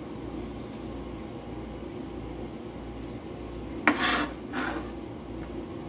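Burritos frying in a skillet with a steady low sizzle. About four seconds in, two brief scraping rustles come from diced chicken being gathered on a plastic cutting board.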